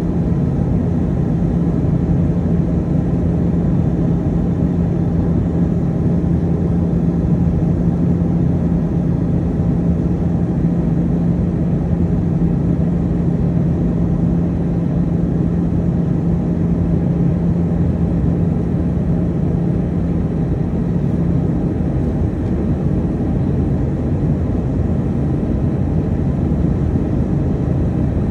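Airbus A320 passenger cabin in flight during descent: a steady rush of airflow and engine drone, with a steady low hum that fades about three-quarters of the way through.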